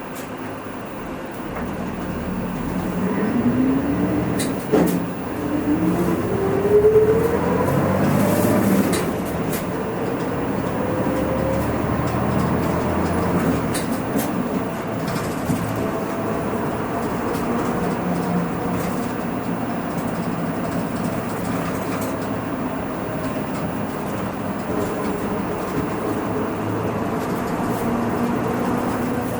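Hino Rainbow II bus's diesel engine heard from inside the cabin as the bus accelerates: the engine note climbs in three rising runs through the gears over the first ten seconds or so, with a few light knocks, then settles into steady cruising with road rumble.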